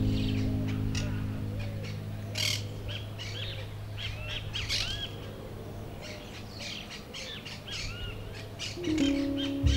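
Songbirds chirping, a busy run of short arching notes, over the fading tail of a low held chord from the background music. The music swells back in near the end.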